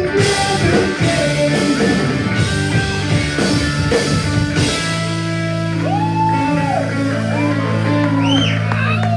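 Punk rock band playing live on loud electric guitars, bass and drums; about halfway through, the drums stop and the band holds a ringing guitar chord, with high guitar notes sliding up and down over it.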